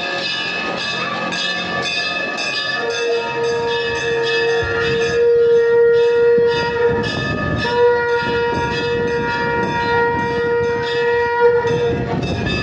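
Temple bells struck over and over, about three strikes a second, each ringing on. From about three seconds in, a long, steady, horn-like note is held over them, broken briefly about halfway.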